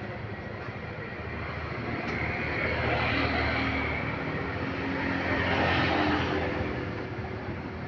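Heavy road vehicle's engine and tyres running past, swelling louder twice in the middle and then fading.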